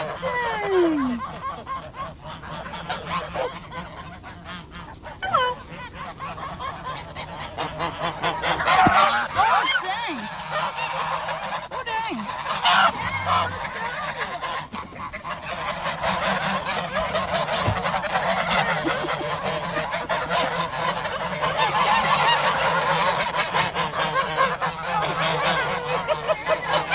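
A flock of geese honking all around, many calls overlapping. The honking thickens and grows louder about eight seconds in, and again through the second half.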